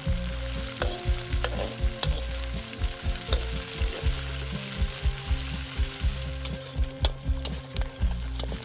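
Chopped frog sizzling in oil in a steel wok, with a slotted metal ladle stirring and clicking against the pan, over background music with steady low notes.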